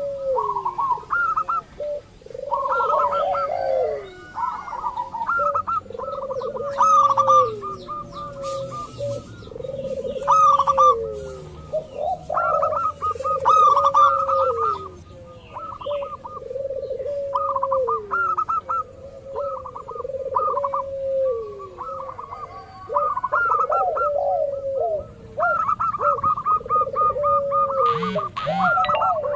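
Zebra doves (local perkutut) cooing over and over in their rapid, rolling song, several birds overlapping, with faint chirps of smaller birds now and then.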